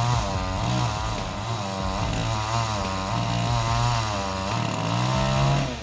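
Chainsaw engine running under load, its pitch rising and falling again and again as it bogs and recovers in the cut. It cuts off suddenly at the end.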